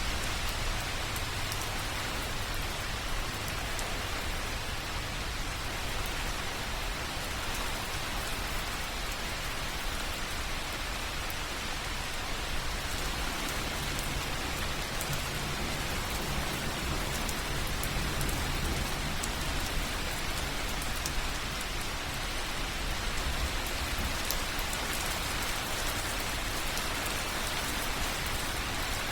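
Slow rain dripping: a steady patter of many scattered small drops over a soft wash of water noise.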